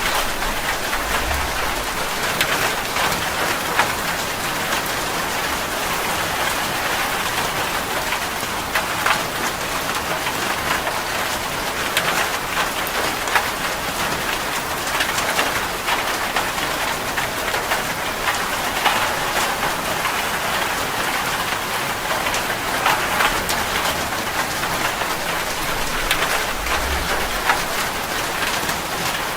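Steady rain falling on a surface, a continuous hiss dotted with many small individual drop ticks.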